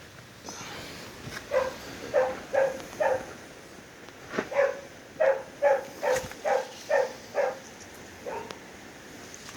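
A dog barking in quick runs of short barks, about three a second: four barks, a pause, then about seven more and a last single bark.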